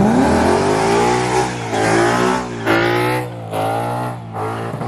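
Car engine revved hard, its pitch climbing and dropping several times, over a steady hiss.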